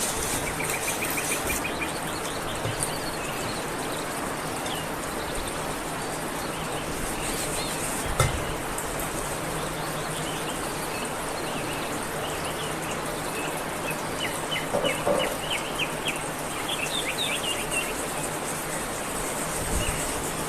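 Small birds chirping in quick repeated trills over a steady hiss, with a single sharp knock about eight seconds in.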